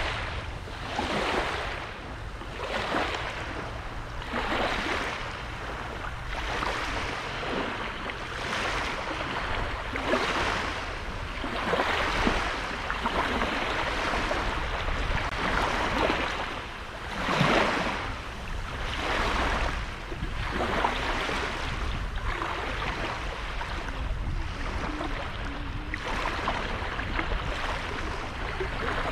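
Small sea waves breaking and washing onto the beach, one wash swelling and fading every second or two, over a steady low rumble of wind on the microphone.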